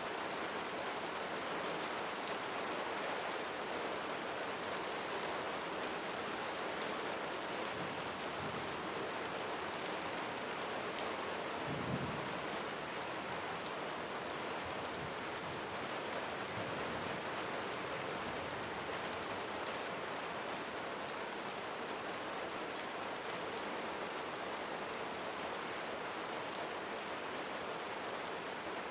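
Steady rain falling on leaves, an even hiss of many drops. A brief low rumble rises and fades a little before halfway through.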